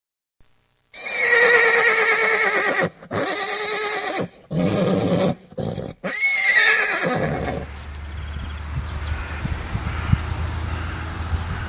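Horses neighing: loud whinnies with a quavering, wavering pitch, starting about a second in and broken off abruptly several times. After about seven seconds they give way to a steady low hum with faint scattered knocks.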